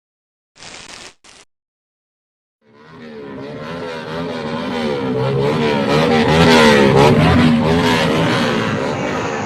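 Motorcycle engines revving, their pitch wavering up and down as the throttles are blipped. The sound comes in about three seconds in and swells to a loud, steady level.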